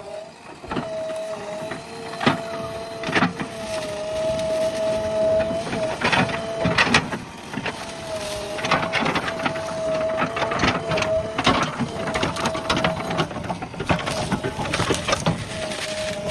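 JCB backhoe loader working through brush, with a steady whine that fades out and returns several times. Many sharp cracks and snaps of wood are scattered through it.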